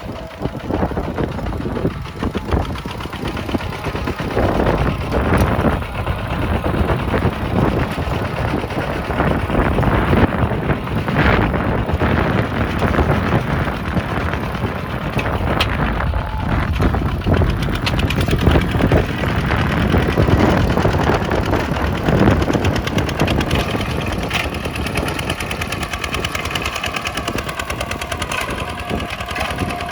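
A Kubota tractor's diesel engine runs steadily, with its level rising and falling slightly; in the last several seconds its note settles into a steadier pitch.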